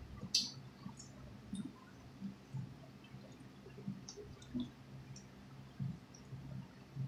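Close-up eating sounds: wet chewing and mouth clicks from people eating soft, cheesy stuffed croissants, with small sharp clicks coming irregularly about once a second over a faint steady low hum.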